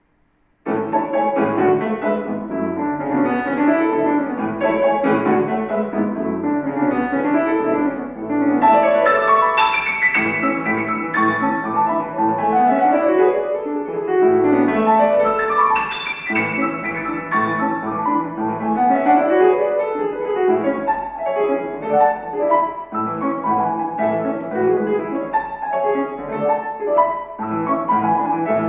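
Solo piano playing a classical piece, starting suddenly less than a second in, with quick running passages that sweep up and down.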